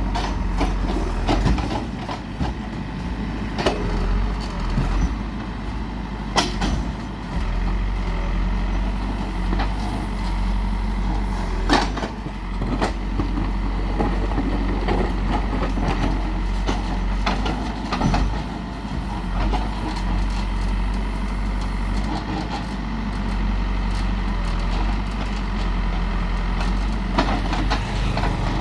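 Heavy construction machine's diesel engine running steadily, with a few sharp knocks and clanks over it.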